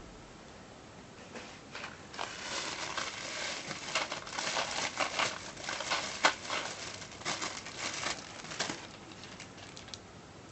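Packaging crinkling and rustling as it is handled, with many small clicks. It starts about a second and a half in and dies down near the end.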